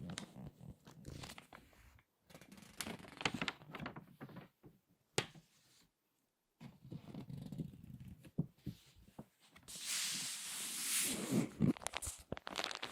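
Crinkly magazine pages being turned and squeezed: irregular crackling and rustling in stops and starts, with a longer, louder stretch of crinkling near the end.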